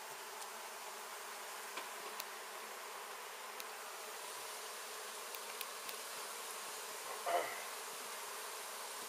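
Honey bees of a large colony buzzing steadily, with a few faint clicks and a brief louder sound about seven seconds in.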